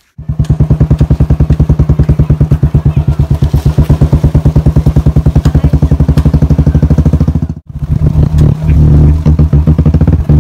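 Motorcycle engine running loud and steady with a fast, even pulsing beat; it cuts out abruptly about seven and a half seconds in and comes back rougher and uneven, as if revving.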